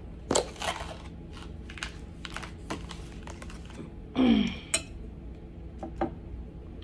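Close-up eating sounds while tasting a strawberry cream cake: a string of small sharp clicks and smacks from mouth and utensil. About four seconds in comes a short hum of appreciation that falls in pitch.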